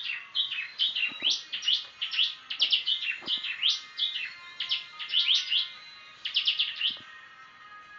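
Prenjak (a prinia) singing in quick clusters of sharp, rapidly rising and falling chirps, stopping about seven seconds in.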